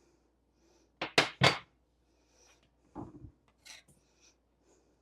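Three quick sharp knocks about a second in, then a few fainter clicks: kitchen utensils and spice containers being handled and tapped against a bowl.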